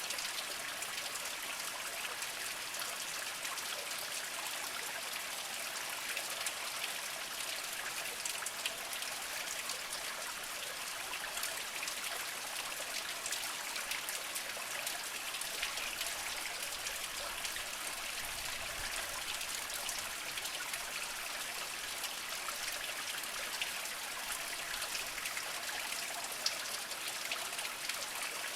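A small spring trickling and splashing over mossy rocks: a steady hiss of water flecked with many small drips and plinks.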